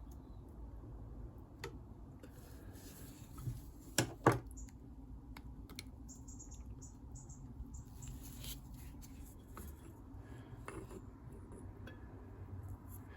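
Faint metallic clinks and scrapes of hand tools on engine parts while a damaged piston is worked free of a motorcycle engine. There are two sharp metal knocks about four seconds in.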